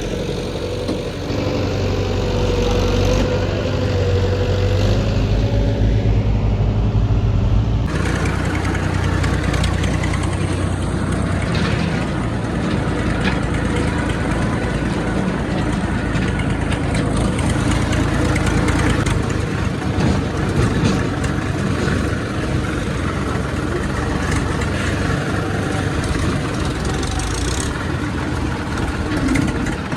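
Heavy diesel engine running. The sound changes abruptly about eight seconds in, from a steady hum to a rougher, noisier running.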